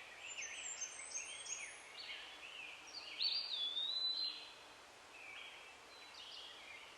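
Faint birdsong: several birds chirping with short falling notes, and one clearer held whistle about three seconds in.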